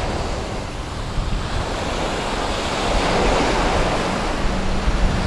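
Small sea waves breaking and washing up the beach, swelling about halfway through, with wind buffeting the microphone.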